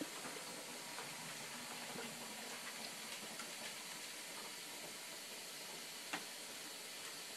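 Steady hiss with faint, irregular small clicks and one sharper click about six seconds in: a cat chewing and licking at mac and cheese.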